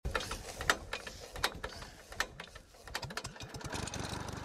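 Car engine revving with a series of sharp exhaust pops and cracks, the loudest three coming about every three quarters of a second. About two and a half seconds in, the revs rise, then settle into a steady running note.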